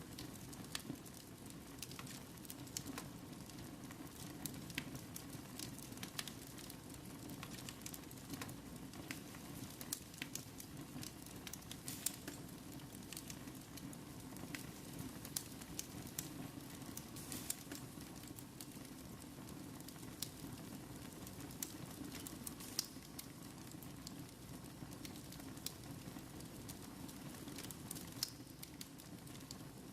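Fire in a fireplace crackling, with frequent irregular sharp snaps and pops over a low steady rush of flame.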